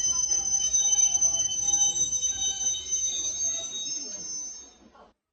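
Passenger train's steel wheels squealing against the rails with several high, steady tones over rumbling running noise, fading away as the train slows. Cuts off suddenly near the end.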